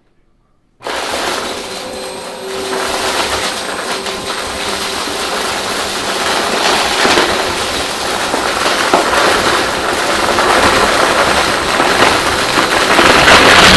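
Vacuum cleaner switched on about a second in, its motor starting abruptly and running with a loud steady rushing noise that grows somewhat louder toward the end.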